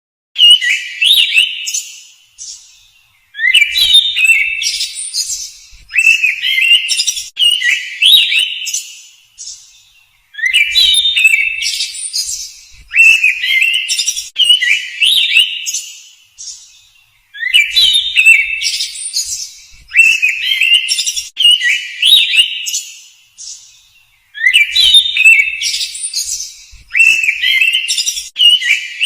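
Bird calls: bright chirps and whistled notes in quick runs, each run sharply starting and fading. The same sequence of calls repeats about every seven seconds.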